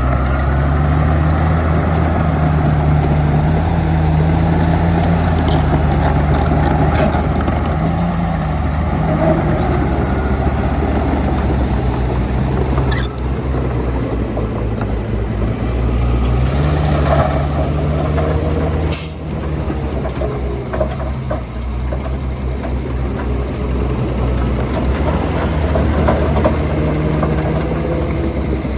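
Heavy diesel engine of earthmoving machinery working under load. Its note eases off partway through and picks up again, with a brief sharp noise about two-thirds of the way in.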